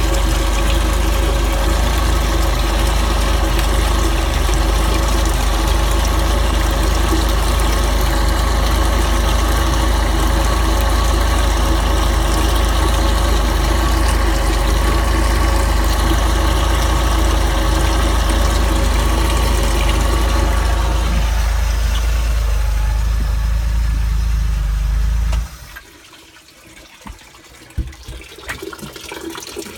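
OMC 4.3 L V6 boat engine idling steadily, then shut off about 25 seconds in, leaving only faint small clicks. This is the engine the owner says is pumping water into its own engine compartment.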